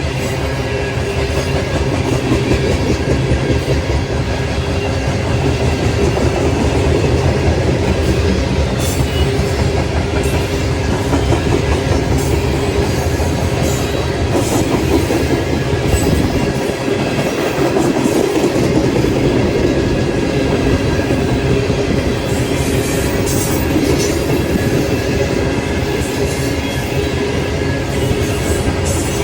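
A train rolling past: a steady loud rumble of steel wheels on the rails, with the clatter of wheels over the track joints.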